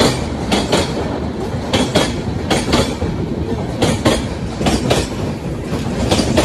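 Express train's passenger coaches running fast past a platform: a steady rumble of wheels on rails, with a clickety-clack as wheel sets strike the rail joints, the clacks often coming in quick pairs.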